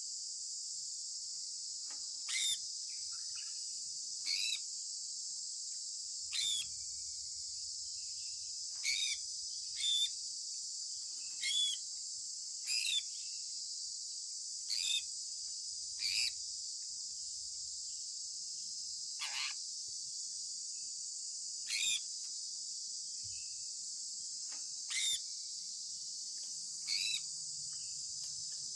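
Sun conure chirping: short, sharp, high calls about every two seconds, some a little longer than others, over a steady high hiss.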